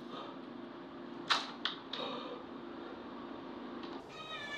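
Faint room tone with a low hum and three quick clicks about a second and a half in; near the end a cat's long, drawn-out yowl begins.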